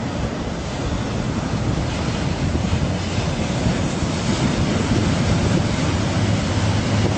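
Wind buffeting the microphone over the noise of waves and rough water, steady throughout.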